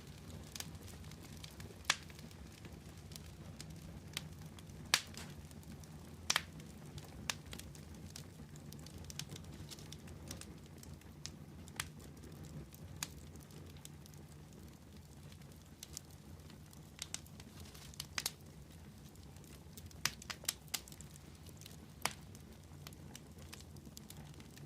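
Wood fire crackling: irregular sharp pops and snaps over a low steady rumble of burning, with a few louder pops about 2 and 5 seconds in and around 20 seconds.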